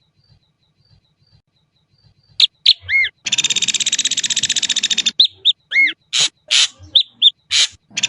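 Ashy drongo singing: after a quiet start, a burst of sharp short notes and arched whistles, then a long rapid rattling trill lasting about two seconds, followed by more short, separate notes.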